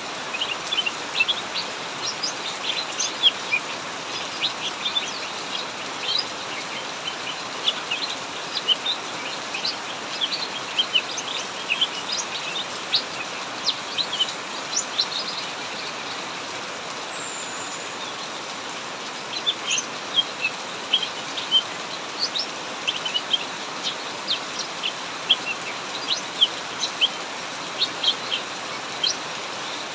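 Cucak mini birds chirping in quick, short, high notes over the steady hiss of heavy rain. The chirping pauses for a few seconds just past the middle, then resumes.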